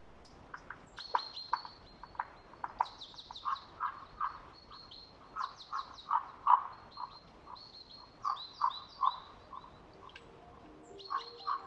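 Birds calling: a busy series of short, high chirps with quick downward sweeps, mixed with short lower notes. Soft music begins to come in near the end.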